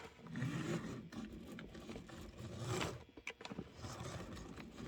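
Fleischmann HO-scale Alco diesel model locomotive running on the track: its small electric motor and metal gears make a rough, uneven scraping and rubbing sound with scattered clicks. It has just been lubricated and now runs, though its dirty wheels still need cleaning.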